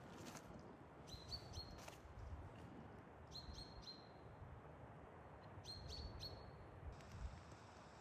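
Faint high bird calls, each a quick downward flick settling onto a short held note, coming in groups of two or three about every two seconds, over faint low background noise.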